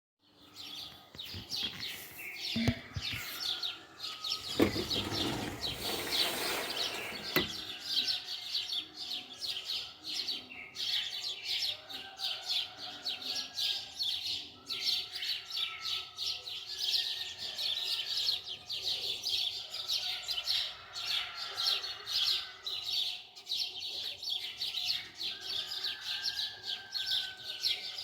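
Many birds chirping rapidly and continuously, with a few seconds of rushing noise about five seconds in.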